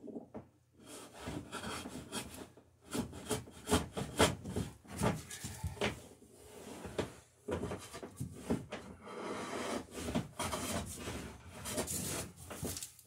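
Scratch-stock beading tool, its cutter the end of a steel screw, scraping along a wooden boat rail in repeated pull strokes with short pauses between them, cutting a bead and taking narrow shavings.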